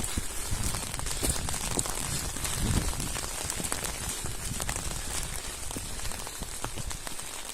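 Steady rain, with many separate drops hitting a surface.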